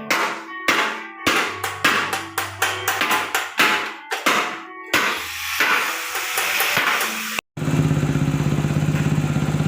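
Background music with sharp percussive beats. After a brief cut near the end, a Kawasaki Binter motorcycle engine runs steadily at idle through its newly made classic exhaust.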